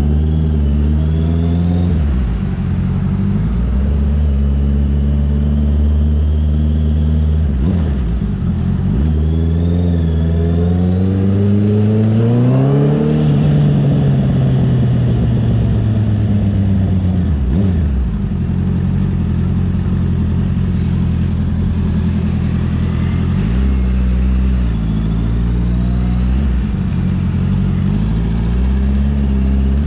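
Honda CB650R inline-four through an aftermarket CS Racing exhaust, pulling through the gears: the revs climb and drop back at each upshift, about two and a half seconds in and again near eight seconds. After a longer climb the revs fall away for several seconds as the bike slows, then it pulls again with a few short rises and drops.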